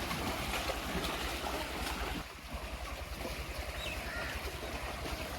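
Canal water sloshing and splashing around bathing Nili water buffaloes, a steady rushing wash, with wind rumbling on the microphone.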